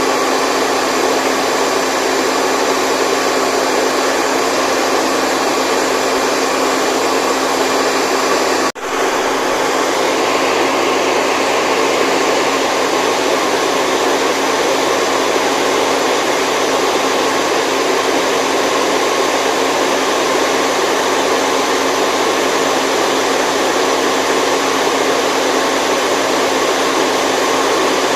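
Steady white noise for a baby's sleep: a constant rushing hiss with a faint steady hum in it, broken by a momentary dropout about nine seconds in.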